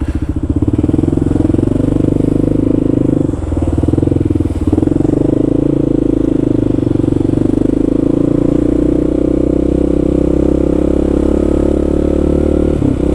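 Kawasaki KLR650's single-cylinder four-stroke engine running steadily as the bike rides along, its level dipping briefly twice about three and a half and four and a half seconds in.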